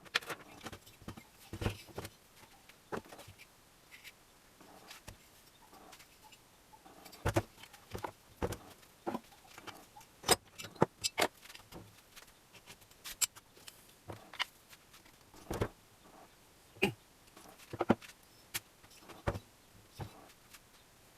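Irregular clicks, clinks and knocks of tools and small metal parts being handled during moped repair work, a few louder knocks among lighter ticks.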